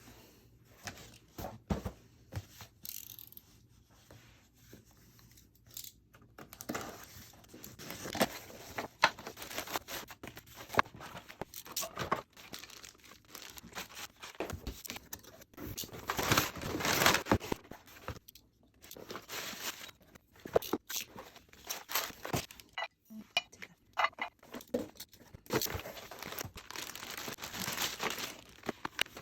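Gift packaging being torn open and crinkled by hand: irregular rustling and tearing of paper and wrapping, with small clicks and handling knocks.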